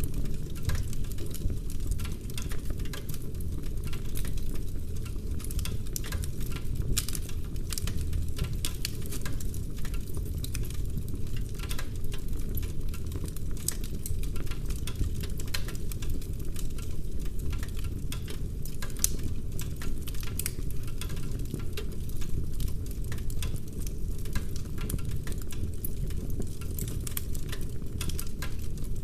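Wood fire burning in a fireplace: a steady low rumble of flames with many small crackles and pops from the burning logs.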